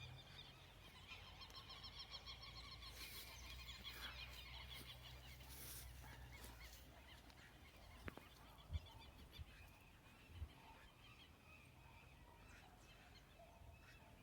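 Faint, distant bird calls, a rapid chattering that fades out after about six seconds, over near silence. A few soft knocks follow later.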